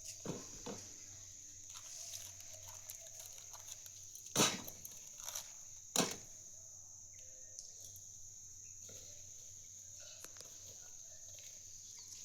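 Steady high-pitched drone of insects, broken by two sharp knocks about a second and a half apart near the middle, with a few fainter clicks.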